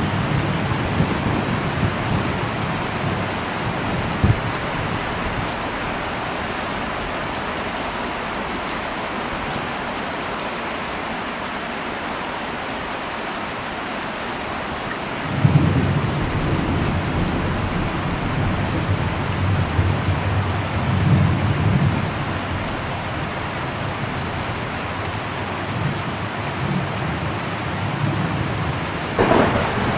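Heavy rain drumming steadily on an old metal roof, with thunder. A rumble fades over the first few seconds, a sudden clap about halfway through rolls on for several seconds, and another crack comes near the end.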